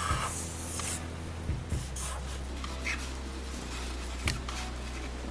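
Pens scratching and rubbing on paper while drawing quickly, with a few light taps, over a steady low electrical hum.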